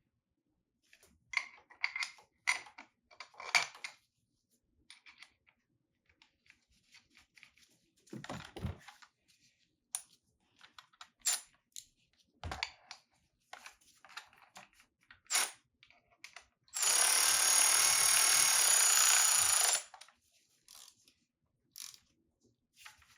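Scattered clinks and knocks of tools being handled, then a power tool runs steadily for about three seconds near the end.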